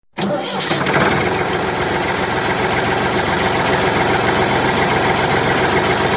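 Steady tractor-engine sound running at idle, a fast, even chugging that holds the same level throughout. It starts abruptly just after the start.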